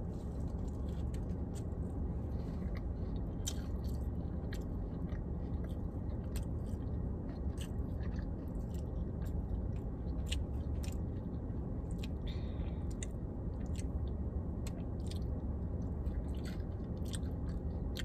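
A person biting into and chewing a fried chicken sandwich, with many small, scattered mouth clicks over a steady low hum.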